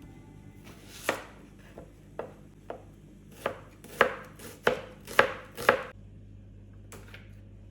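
Knife chopping on a cutting board: about ten separate, unevenly spaced strikes, coming faster and louder in the middle, then one last light tap near the end.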